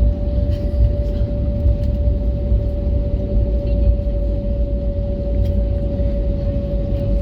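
Cabin noise of an Airbus A321neo taxiing in after landing: a steady low rumble of the engines and rolling gear, with a constant hum tone running through it.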